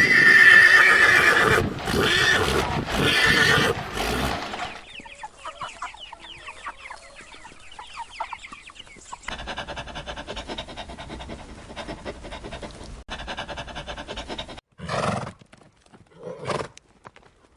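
A horse whinnying loudly for about four seconds, followed by fainter animal sounds and two short calls near the end.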